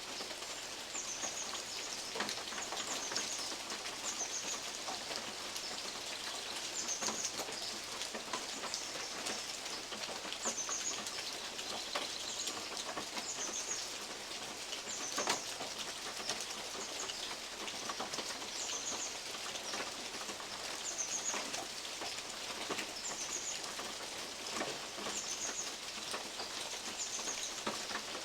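Steady rain, with big drops from the oak leaves landing on a metal roof as separate sharp taps, the loudest about halfway through. A bird repeats a short high call about every one and a half seconds.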